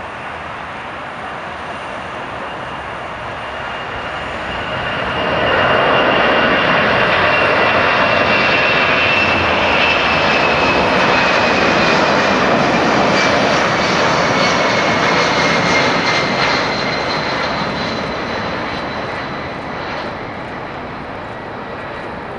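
Boeing C-17A Globemaster III's four Pratt & Whitney F117 turbofan engines at takeoff power. The jet noise swells about five seconds in, stays loud for around ten seconds, then fades, with a high whine that slides slowly down in pitch as the aircraft passes.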